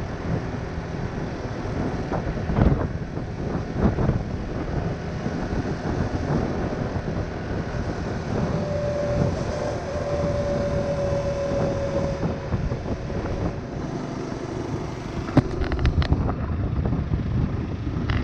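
Honda Winner 150's single-cylinder engine running under way, mixed with wind rushing over the camera microphone. A steady high tone sounds for a few seconds near the middle, and a few sharp knocks come through, the loudest about two thirds of the way in.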